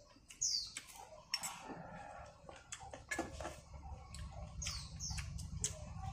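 A bird calling twice with short, high chirps that sweep downward, over scattered small clicks of spoons and bowls. A low rumble comes up in the second half.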